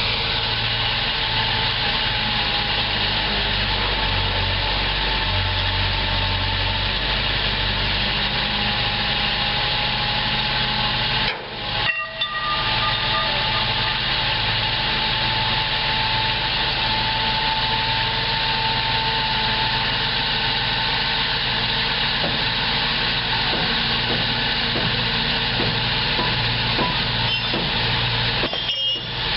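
Dump truck engine running steadily with a pulsing low hum, briefly dropping out twice.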